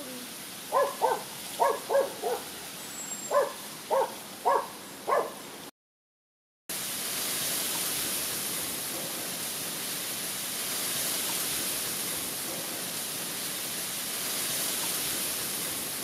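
A bird gives about ten short hooting calls, mostly in twos, over the first five seconds. The sound then cuts out for about a second, and a steady hiss fills the rest.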